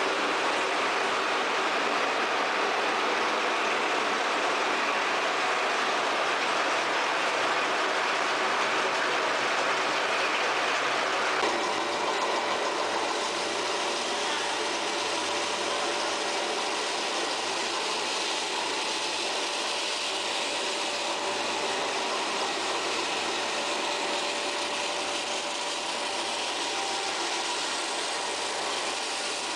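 Tire recycling machinery running steadily, a dense mechanical noise. About a third of the way in the sound changes abruptly, becoming slightly quieter with a few steady hums.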